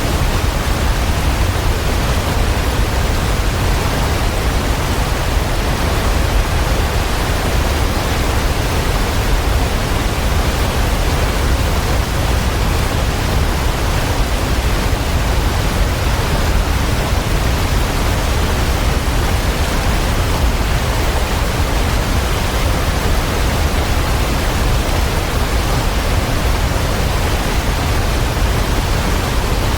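A steady, even rushing noise with no rhythm, tones or separate events, heaviest in the low end.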